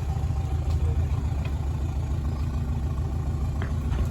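Canal boat's engine running steadily, a fast low throb.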